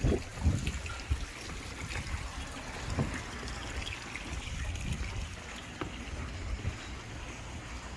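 Water trickling and lapping, with a few low thumps in the first second.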